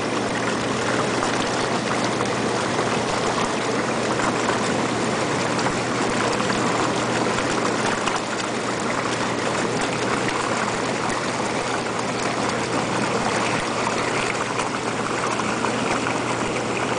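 Hot tub jets running steadily: water churning and bubbling over the constant hum of the pump motor.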